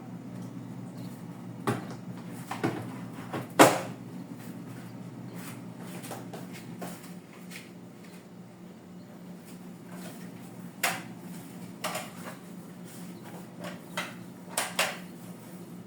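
Scattered knocks and clatters of containers and food items being set onto refrigerator shelves and drawers, the loudest about four seconds in and a quick run of them near the end, over a steady low hum.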